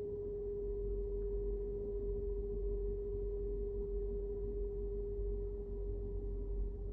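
A steady, single-pitched hum held without a break over the low rumble of a car driving.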